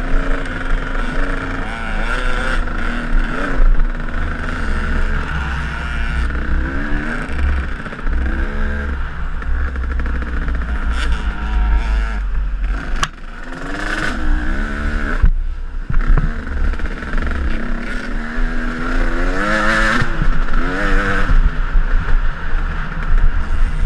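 KTM enduro dirt bike engine on a trail ride, its pitch rising and falling again and again with the throttle, with a brief letting-off about two-thirds of the way through.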